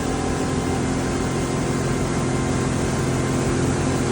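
Boat engine running steadily at a constant speed, with the hiss of wind and water over it.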